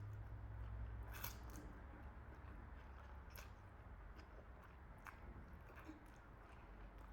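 Faint close-up chewing of food, with a few soft wet mouth clicks, over a low steady hum.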